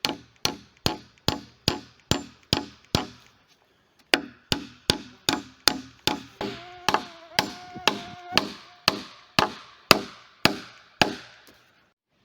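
A hammer strikes in quick, even blows, about two to three a second. It stops for a moment about three and a half seconds in, then starts again, and a ringing tone sounds during the middle blows. The blows stop shortly before the end.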